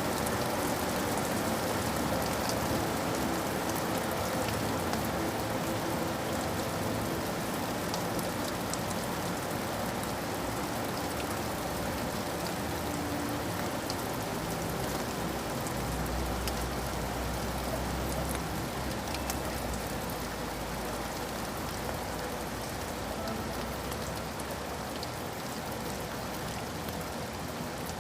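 Steady rain falling, a dense even hiss with individual drops ticking through it. A low rumble sits under it about halfway through.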